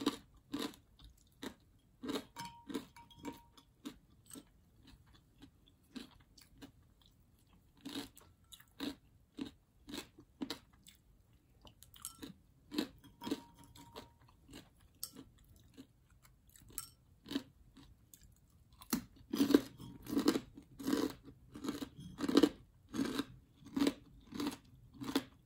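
A person chewing a mouthful of breaded fried chicken and rice, with irregular wet clicks and light crunches several times a second. The chewing grows denser and louder about 19 seconds in.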